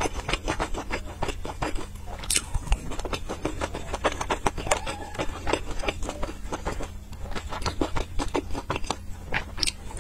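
A person chewing soft steamed stuffed buns with chili oil: rapid wet smacking and clicking mouth sounds, several a second.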